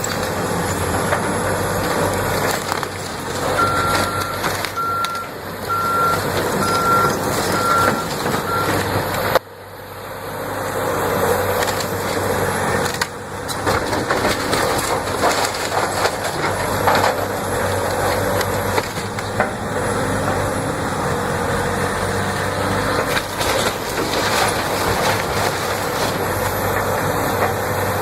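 Heavy truck and machinery engine noise, with a reversing alarm beeping evenly for about five seconds. The sound then changes abruptly to other steady engine and machinery noise.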